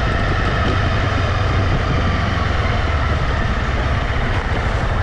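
Honda CB250R's single-cylinder engine running steadily under way, with road noise.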